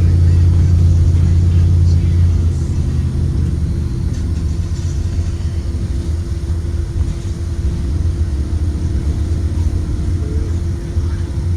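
Blue Bird Vision school bus heard from inside the cabin while driving: the Ford 7.3L V8 engine and road rumble make a steady low drone, easing a little after about two seconds.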